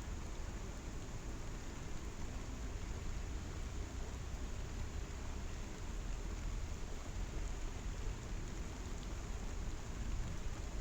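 Steady rushing of a waterfall in the rain: an even, unbroken noise with a strong low rumble underneath.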